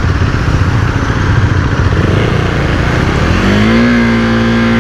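KTM 390 Duke's single-cylinder engine running under a rumble of wind and road noise; about three seconds in its pitch rises quickly and then holds steady.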